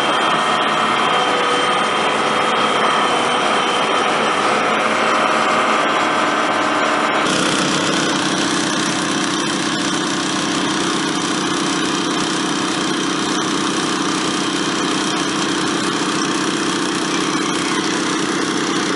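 Small gasoline engines running steadily, the portable pumps that fill the AquaDam with water. About seven seconds in, the sound changes abruptly to a lower, steadier engine note.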